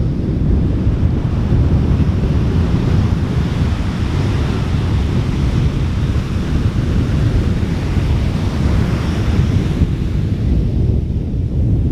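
Wind buffeting the microphone over the steady wash of ocean surf on a beach, the surf's hiss swelling through the middle and easing off near the end.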